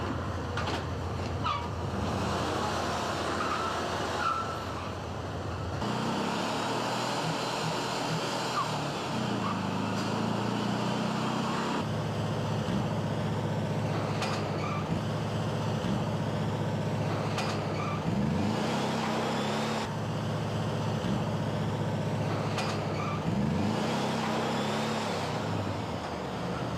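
Volkswagen Beetle's air-cooled flat-four engine running with a steady low drone, coming in about six seconds in over general factory noise. It is revved twice, rising in pitch about two-thirds of the way through and again near the end.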